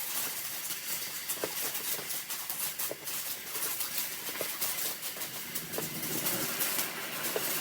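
Firework burning with a steady hiss and fine crackling, with a few faint pops scattered through.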